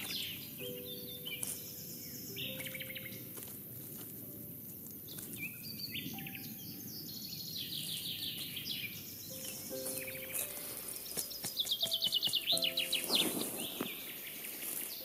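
Songbirds singing, with repeated high chirps and downward-sliding trills and a loud rapid run of notes near the end, over soft background music with long held notes.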